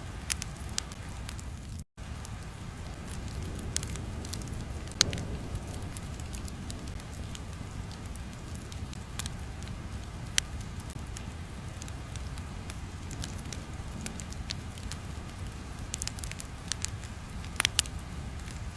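Crackling fire ambience: scattered pops and snaps over a steady low rumble, with a brief dropout about two seconds in.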